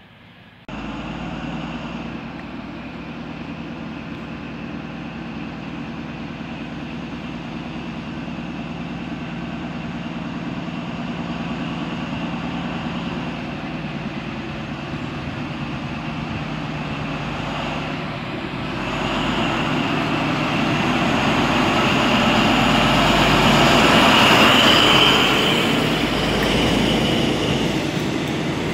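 A train running on the tracks: a steady rumble with a low hum that swells from about two-thirds of the way in, with a high squeal at its loudest, then eases a little near the end.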